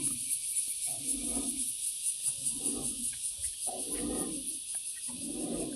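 Insects trilling: a steady, high-pitched, rapidly pulsing drone, with soft low rumbles about once a second beneath it.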